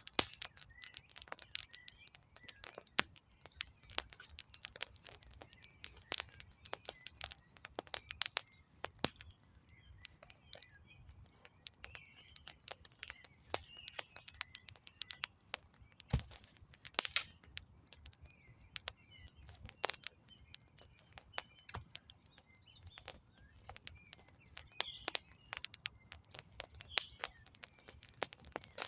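Campfire of burning firewood crackling, with frequent sharp snaps and pops and a few louder cracks in the middle, while small birds chirp in the background.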